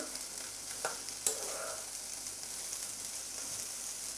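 Chopped okra sizzling in hot oil in a non-stick pan while a slotted metal spatula stirs it, being sautéed before the spices go in. Two sharp clicks of the spatula against the pan come about a second in.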